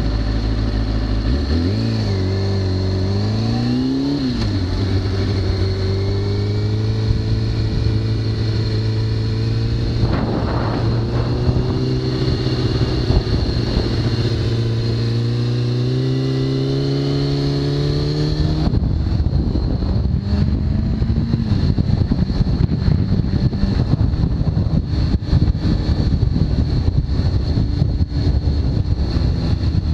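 2003 Kawasaki ZX-6R inline-four with a full Hindle titanium exhaust, heard from the rider's seat: the engine note climbs and drops through a roundabout, holds steady, then rises slowly under acceleration. A little past halfway, buffeting wind on the microphone takes over as speed builds and the engine note sinks under it.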